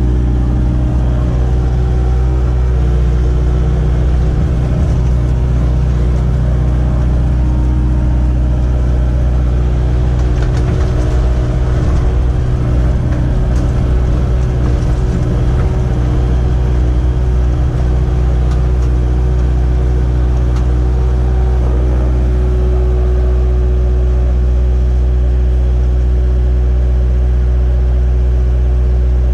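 Kubota 057-5 excavator's diesel engine running steadily, with some added clatter and rattling from about ten to eighteen seconds in.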